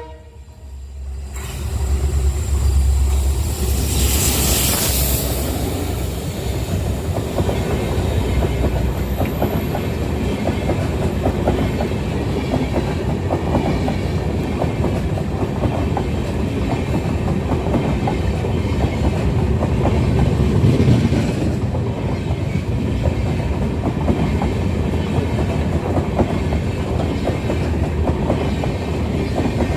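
Express passenger train running past: a steady rumble with a fast clickety-clack of wheels over rail joints, and a brief hiss about four seconds in.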